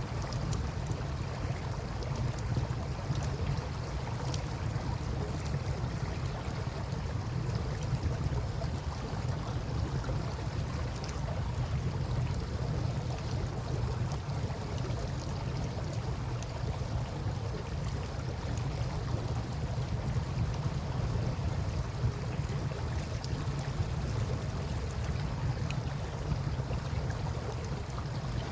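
Campfire crackling with scattered small pops over a steady low rumble and the wash of flowing river water.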